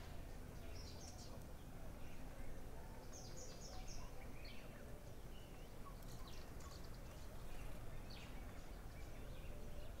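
Faint ambience of scattered high bird chirps, including a quick run of about four notes about three seconds in, over a steady low rumble.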